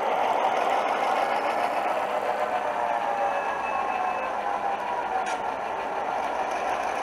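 Simulated diesel locomotive engine sound from a Soundtraxx Econami decoder, played through a small sugar-cube speaker inside an HO scale GP-7 model as it runs along the track. It is a steady engine rumble that gets slightly quieter as the model moves away.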